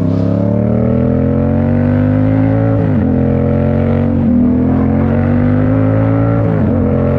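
Yamaha MT-07's 689 cc parallel-twin engine through a Toce full exhaust, running loud under load with its pitch climbing slowly. The pitch dips sharply and briefly about three seconds in and again near the end.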